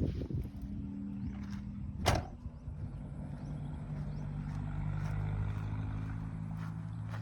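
Vehicle engine running at low speed, its steady hum shifting slightly in pitch, with one sharp knock about two seconds in.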